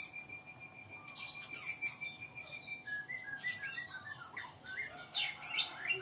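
Sooty-headed bulbul chick chirping: many short, sharp calls that sweep up and down in pitch, over a steady high tone that stops about halfway.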